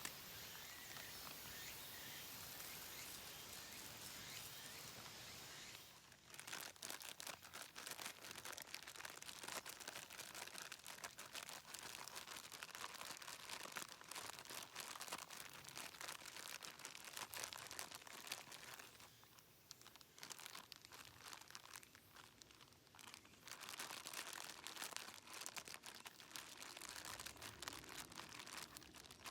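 Faint outdoor background, then about six seconds in a dense fine crackling begins, like cooking over the bonfire. It eases briefly a little past the middle and then carries on.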